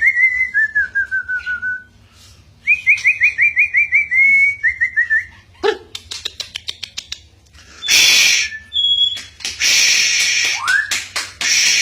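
White-rumped shama singing: two runs of rapid repeated whistled notes that slide down in pitch, then a quick series of clicks, then loud harsh hissing notes with a rising whistle near the end.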